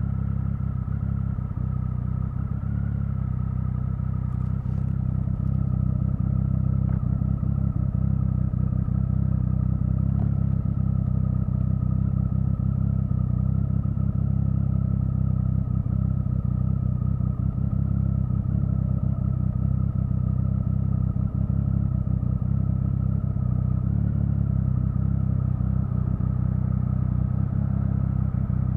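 Triumph Speed Triple 1050's inline three-cylinder engine running at a steady, low engine speed while being ridden, its exhaust note holding almost the same pitch throughout and getting slightly louder about two seconds in.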